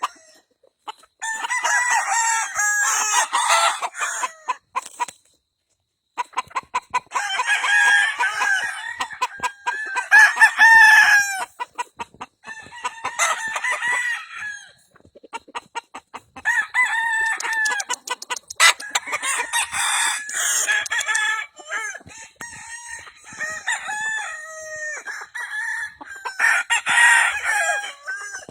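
Gamecock roosters crowing over and over, about eight long crows in turn and sometimes overlapping, with clucking between them.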